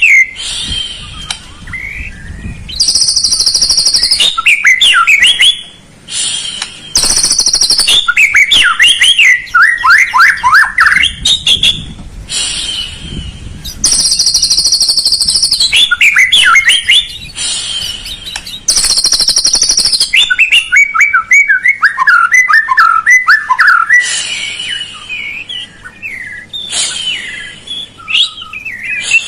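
White-rumped shama (murai batu) singing: loud, varied phrases of fast rising and falling whistles and trills, broken every few seconds by high, steady buzzing notes. The song serves as a lure track to set off a caged shama that is reluctant to sing.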